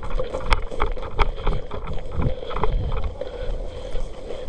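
Irregular footfalls and knocks of kit as a player moves across rough ground, with wind rumbling on the microphone.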